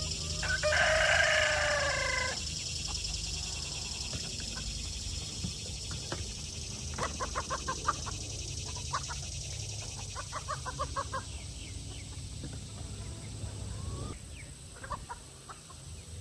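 Chickens clucking, with one long, loud drawn-out call about a second in, then quick runs of short clucks.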